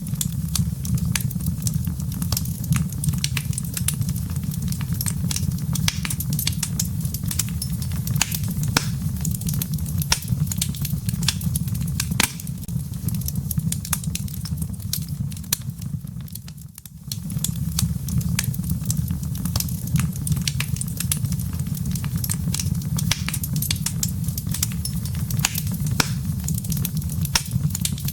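Wood fire in a fireplace crackling, with a dense, irregular run of small pops and snaps from the burning logs and embers over a steady low rumble. The sound dips briefly about seventeen seconds in, then carries on as before.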